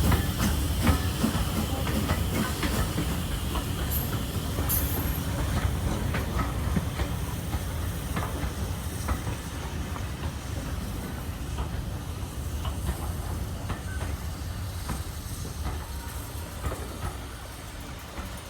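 Train running on the rails, a steady rumble and hiss with the clicking of wheels over rail joints, gradually growing quieter.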